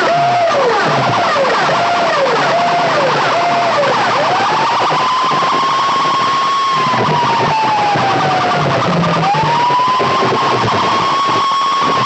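DJ sound system playing a siren-effect competition track: a siren-like tone falls in short repeated swoops, a bit under one a second, for about four seconds, then rises into a long held wail that slowly falls and rises again about nine seconds in, over a steady bass beat.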